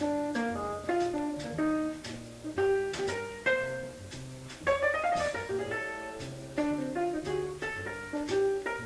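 Jazz guitar playing quick single-note lines and chords over a bass line.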